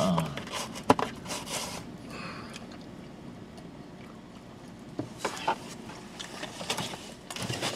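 Two people biting into and chewing slices of cheese pizza: soft chewing noises with scattered small mouth clicks, a few sharper ones about a second in and again near the end.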